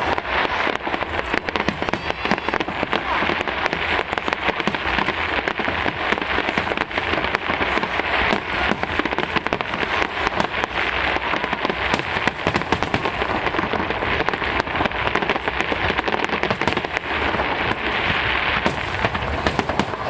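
Many fireworks crackling densely and without a break, a thick mass of small sharp pops with no big single bangs.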